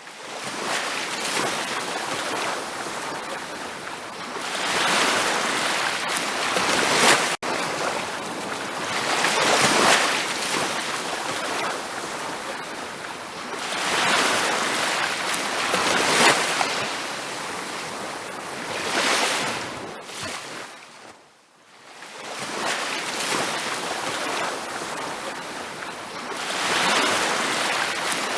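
Ocean waves breaking and washing on a beach, swelling and ebbing every few seconds. The sound fades almost away for about a second around twenty-one seconds in, and briefly cuts out about seven seconds in.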